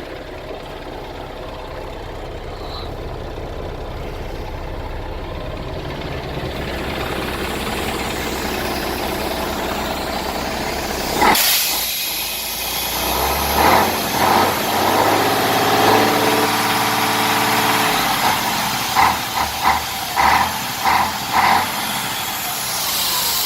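Scania 112M diesel truck engine idling steadily. About halfway through comes a sudden sharp hiss of air, and after it a series of short bursts, several in quick succession near the end.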